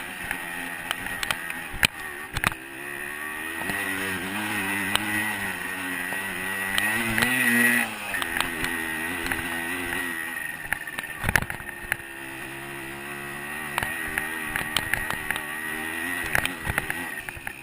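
A 125cc two-stroke dirt bike engine running on a trail ride, its pitch rising and falling with the throttle. The revs climb to a peak and drop off sharply about halfway through. Scattered sharp knocks are heard throughout, with the loudest about two-thirds of the way in.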